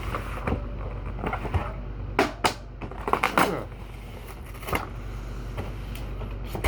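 Drink cans and bottles being handled and set down while stocking a fridge: a few sharp knocks and clatters, the busiest run in the middle, over a steady low hum.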